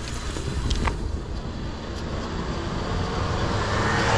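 Road vehicle noise at an intersection: a low rumble that grows steadily louder over the last second or two as traffic pulls away.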